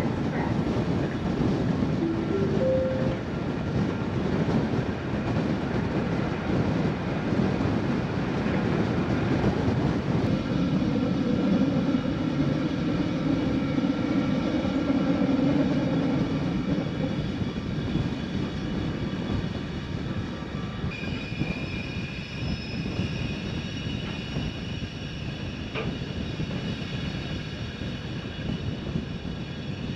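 Metre-gauge Glacier Express train running along the track: a steady rumble of wheels and carriage in motion. The noise eases a little in the second half, and a thin high tone comes in about two-thirds of the way through.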